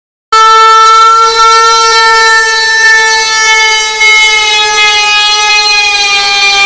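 Very loud, horn-like blare that cuts in abruptly after a moment of dead silence: one held note, rich in overtones, sagging slightly in pitch.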